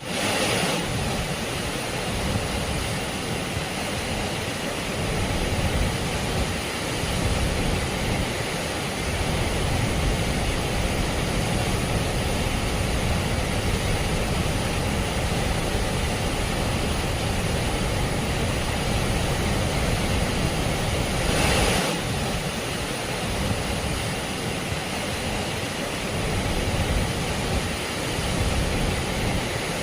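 Steady rushing of a flooded river in spate, a continuous noise of fast water with a heavy low rumble, swelling briefly a little over two-thirds of the way through.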